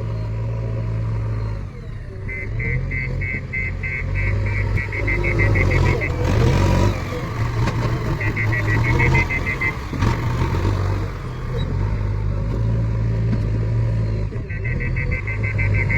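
Diesel engine running under load while a tractor trolley is loaded with soil, its note swelling and dipping. Three spells of rapid, high electronic beeping sound over it.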